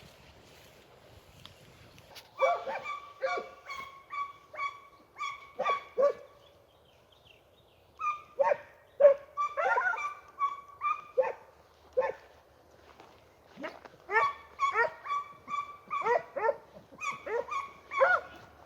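Pack of Italian scent hounds (segugi) giving tongue: rapid runs of short barks and yelps in three bouts with brief pauses, the cry of the pack working a hare's scent trail.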